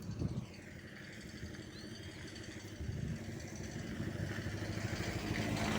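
A motor vehicle's engine approaching along the street, its low hum growing steadily louder, with a couple of knocks right at the start.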